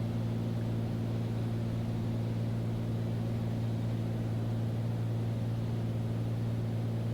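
Beechcraft Bonanza's piston engine and propeller droning steadily, heard inside the cockpit, with an even low hum and no change in pitch.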